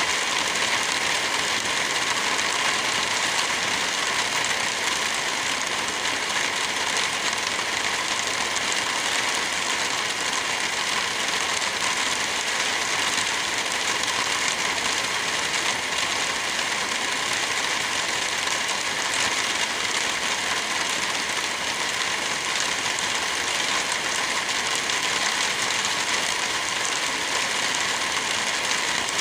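Steady rain, an even hiss with no break or thunderclap.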